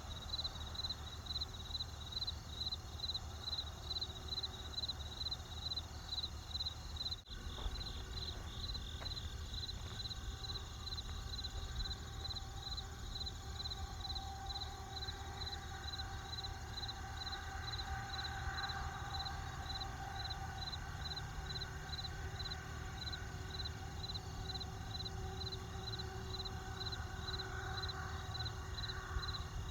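Crickets chirping steadily, about two chirps a second, over the low steady rumble of a campfire. The sound briefly drops out about seven seconds in.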